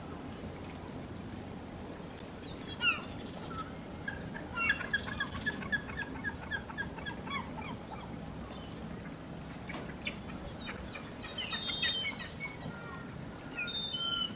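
Gulls calling: scattered calls, then a quick run of repeated notes about four to six seconds in, and more calls toward the end.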